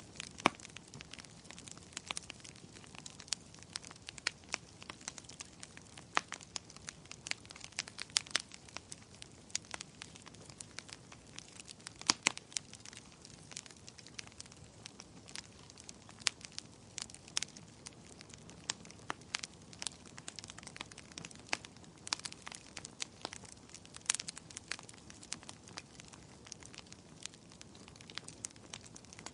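Wood fire crackling in a fireplace: irregular sharp snaps and pops, several a second and now and then a louder one, over a soft steady hiss.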